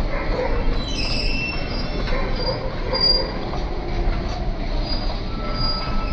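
Freight train's container flat wagons rolling steadily past, their bogie wheels on the rails giving short high-pitched squeals now and then, with a longer squeal near the end.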